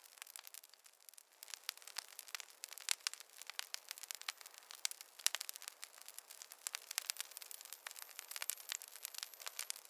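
Campfire crackling: a stream of irregular sharp pops and snaps over a light hiss, sparse for about the first second and then coming thick and fast.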